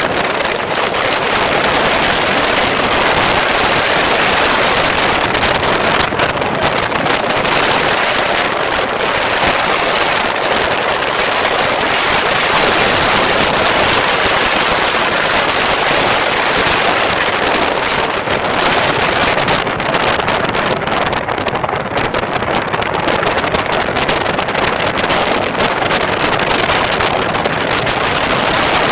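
Motorcycle riding at speed: a loud, steady noise of engine and wind on the microphone.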